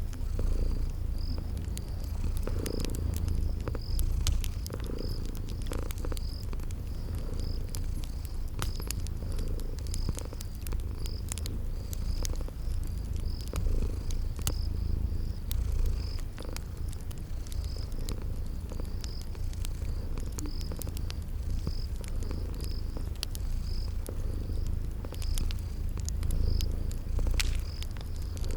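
A cat purring steadily in a low rumble, with a cricket chirping about once a second and scattered crackles and pops of a wood fire.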